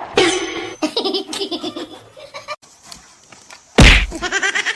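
Someone laughing in quick repeated bursts, broken by a loud thump just before the end.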